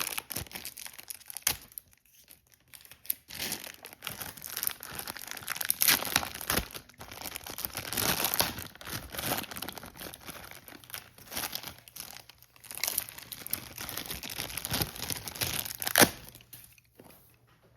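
Packaging of toy barn parts being torn open and crinkled by hand: irregular rustling and tearing with small clicks, pausing briefly a couple of times, and a sharp click near the end.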